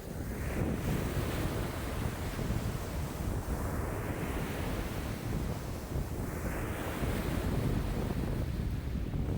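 Lake waves washing in against the shore in strong wind of about 5 m/s, one swell of surging water every two seconds or so, over a steady low rumble of wind buffeting the microphone.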